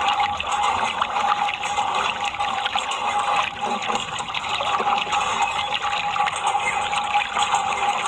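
Steady rush of running, splashing water, with a faint steady whine underneath.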